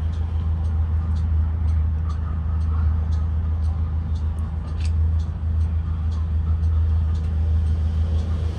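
2023 Blue Bird Vision propane school bus running, a steady low engine and road drone. Faint light ticks sound about twice a second throughout.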